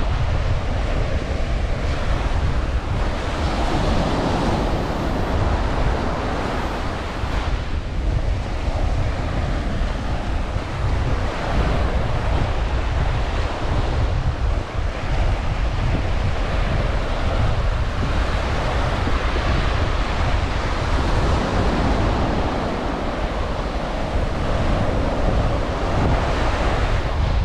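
Ocean surf washing onto a beach in a steady wash of noise, with wind buffeting the microphone and adding a low rumble.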